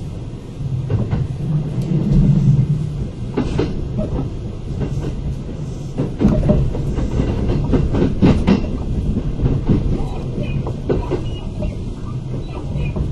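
Onboard running sound of a Kintetsu 8000-series electric train car under way: a steady low rumble of wheels on rail with many sharp wheel-on-rail-joint clicks. A louder low hum swells briefly about two seconds in.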